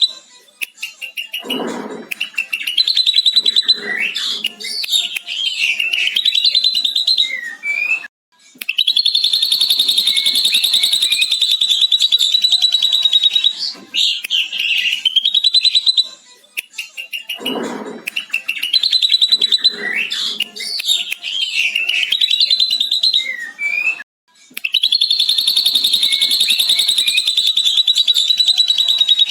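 Ashy drongo singing a varied run of whistled and chattering phrases, including long, rapid lovebird-style chattering trills. The same song sequence repeats about every 16 seconds.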